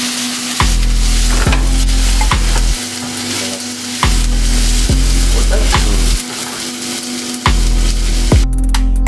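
Chopped onion and pepper sizzling and being stirred in a hot frying pan over a gas flame. Background music with a heavy bass and a steady beat plays over it, the bass dropping out for a second or so several times.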